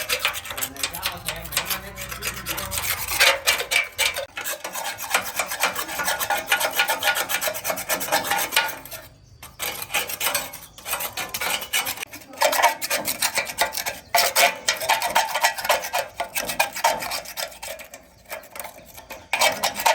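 Rapid, repeated scraping strokes of a hand tool rubbing across a metal part, with brief pauses about nine and eighteen seconds in.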